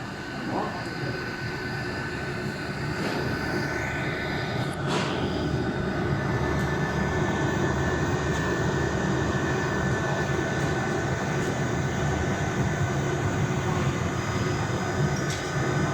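6090 UV flatbed printer running: a steady mechanical hum and whir with a few thin high whining tones, growing a little louder over the first several seconds, with a few faint clicks about four to five seconds in.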